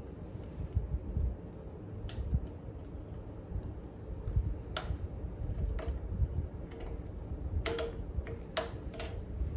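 Scattered sharp clicks and light knocks of hand work on scooter handlebar parts, about half a dozen, several close together near the end, over a low steady rumble.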